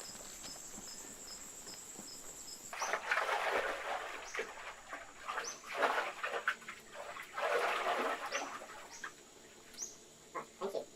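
Insects chirping: a steady high trill with regular pulses, then short rising chirps about once a second. From about three seconds in, irregular bursts of scratchy noise come and go.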